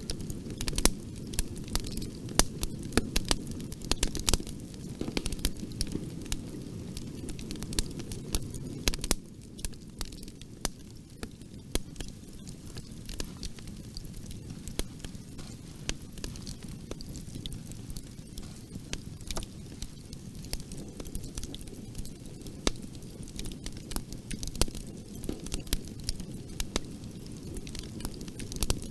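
Wood fire crackling in a fireplace: many sharp pops and snaps over a steady low rumble of flames, the rumble easing a little about nine seconds in.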